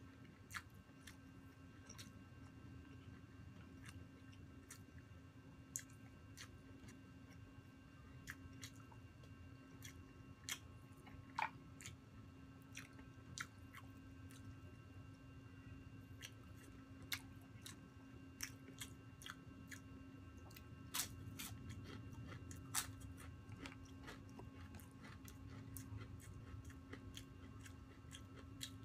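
Close-miked chewing of a person eating rice, laing and crispy fried chicken skin by hand: irregular wet mouth clicks and smacks with a few sharper crunches, the loudest a little after the two-thirds mark.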